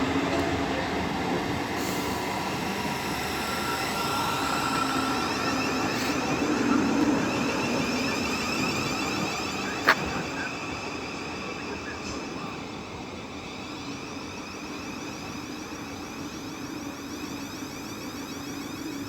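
Electric multiple-unit train running, a steady mechanical noise with a faint whine that slowly fades, and one sharp click about ten seconds in.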